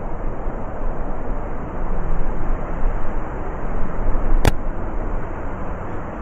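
Heavy blizzard wind blowing, a dense low rush that rises and falls in gusts. A single sharp click about four and a half seconds in.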